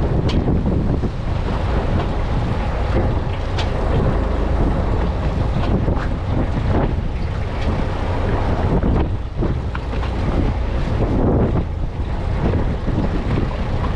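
Wind buffeting the microphone aboard a fishing boat at sea, a heavy, uneven rumble with the wash of water underneath and a few faint ticks.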